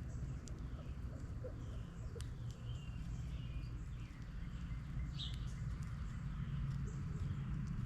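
Small birds chirping at a feeder: a series of short, high chirps scattered through, over a steady low rumble.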